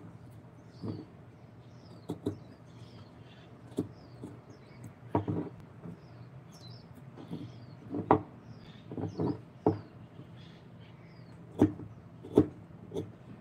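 Scattered, irregular light knocks and clicks of handwork on a wooden piece, with small birds chirping faintly in the background.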